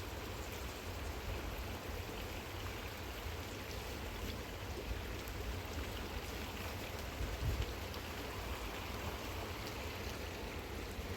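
Steady heavy rain with running floodwater: an even, unbroken hiss with a low rumble beneath, and a brief low thump about seven and a half seconds in.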